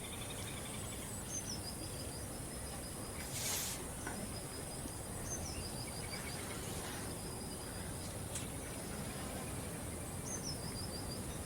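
A small bird repeating the same short, high song three times, each a quick downward slide into a rapid little trill, over a steady outdoor hiss with a constant high-pitched drone.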